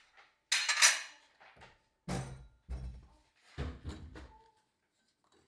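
Dishes and cutlery clattering. The loudest clatter comes about half a second in, followed by three shorter, duller knocks, like things being set down on a table.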